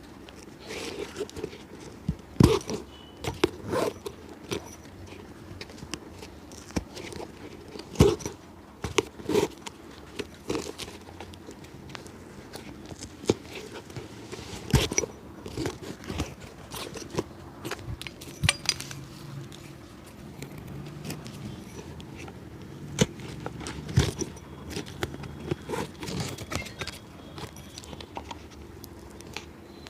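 Hand tools working on a shoe: irregular sharp knocks and clicks, a few much louder than the rest, over scraping and crackling.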